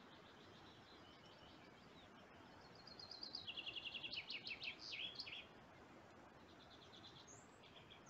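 A songbird singing a fast trilled phrase of rapidly repeated notes that steps down in pitch, starting about three seconds in and lasting some two and a half seconds. Fainter trills come before and after it, over a faint steady hiss.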